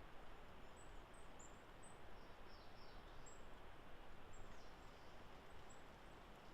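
Faint, thin, high-pitched bird calls: scattered short notes and a couple of falling notes, over a steady background hiss of woodland ambience.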